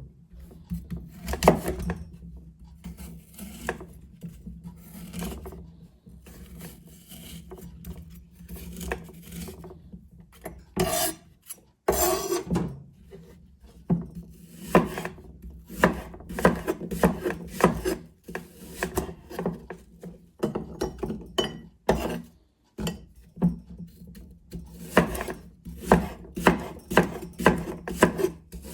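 Kitchen knife working on a wooden cutting board, scraping and knocking in irregular strokes, then in a quick rhythmic run of cuts through the second half.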